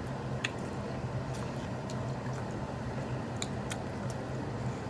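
People chewing and biting into sauce-coated chicken strips, with a few short wet clicks and smacks from mouths, over a steady low hum.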